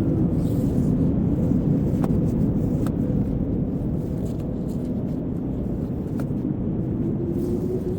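Blizzard wind blowing hard and steadily: a low rushing with faint howling tones that slowly rise and fall, and a few faint ticks.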